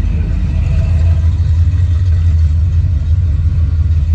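Steady low rumble of a car, with no clear revving or change in pitch.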